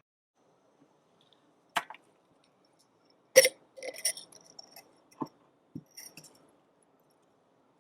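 A handful of sharp clinks and knocks as hard cooking gear is handled and set down. The loudest, about three and a half seconds in, rings briefly like metal or glass.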